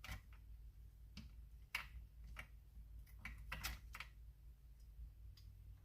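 Faint, irregular clicks and taps of small metal and plastic parts being handled while a replacement chain tensioner is fitted into a chainsaw, over a steady low hum.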